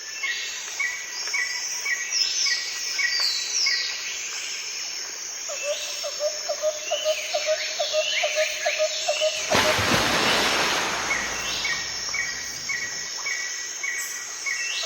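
A chorus of songbirds with many short chirps and whistles. Midway a bird gives a run of about a dozen low hoots, roughly three a second. About ten seconds in comes a brief burst of rushing noise.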